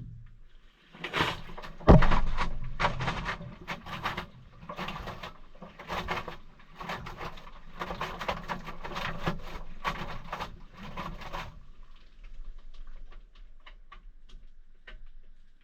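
Maytag washing machine knocking and clicking: one heavy thump about two seconds in, then a quick irregular run of knocks that thins out to scattered light clicks near the end.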